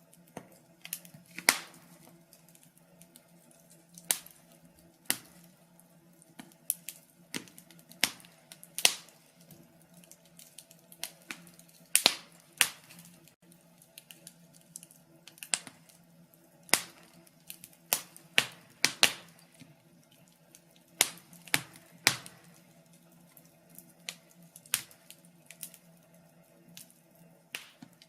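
Wood fire crackling: irregular sharp pops and snaps, sometimes several close together, some much louder than others, over a faint steady low hum.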